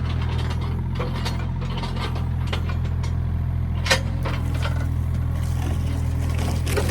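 John Deere 27D mini excavator's diesel engine running steadily under work, with metal clanking, clicking and rattling from its tracks and linkage, and one sharp knock about four seconds in.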